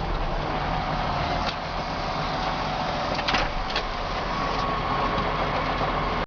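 John Deere 6610 tractor's diesel engine running steadily while ploughing, with a few short sharp knocks a little past halfway.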